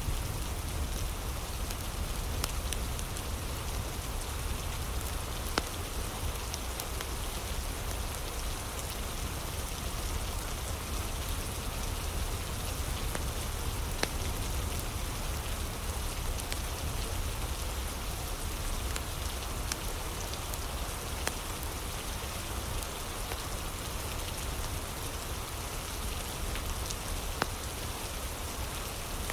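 Steady rain ambience mixed with a crackling fire: an even hiss and low rumble with a few sharp pops scattered through.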